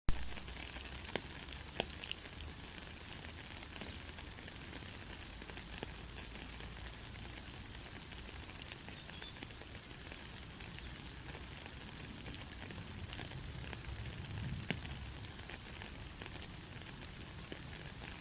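Steady white-noise hiss with a light crackle and a few faint clicks, starting with a sharp click.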